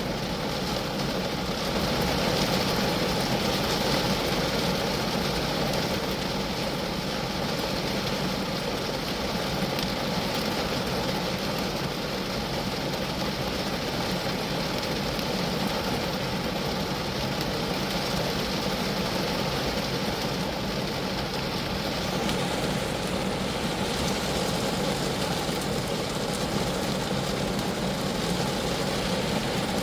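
Steady rain falling on a Geo Metro: an even, unbroken wash of raindrops on the car.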